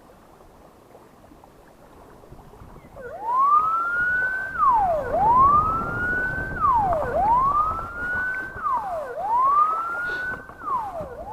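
A siren wailing, starting about three seconds in: each cycle climbs in pitch over about a second and a half, then drops sharply, repeating roughly every two seconds. Low wind rumble runs underneath.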